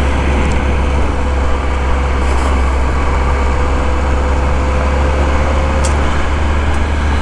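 Motorcycle engine running steadily while riding on a dirt road, with a constant low rumble. A thin steady whine fades out about six seconds in.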